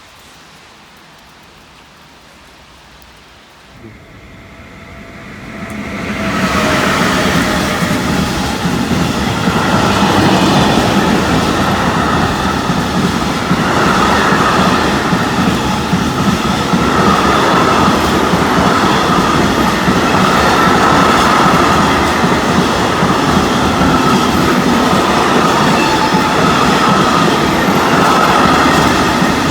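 A train passing close by on the rails: it comes in faintly about four seconds in, is loud from about six seconds, and then runs on steadily with wheel and rail noise and a high, wavering whine.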